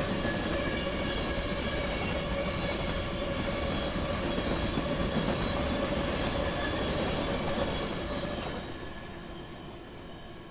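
BNSF freight train rolling past, a steady rumble of cars and wheels with a high ringing tone over it, fading away over the last couple of seconds.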